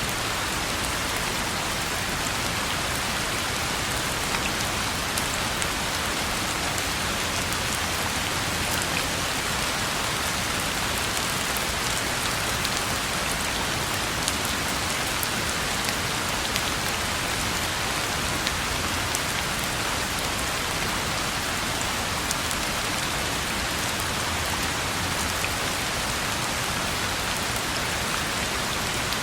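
Steady rain falling on a road: a dense, even hiss with scattered sharp ticks of individual drops.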